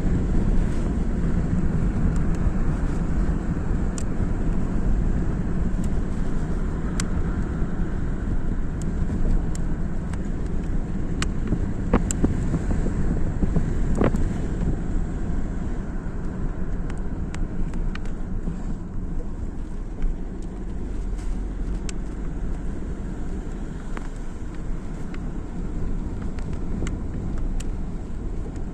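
Moving road vehicle: a steady rumble of engine and tyres, with scattered sharp clicks and knocks.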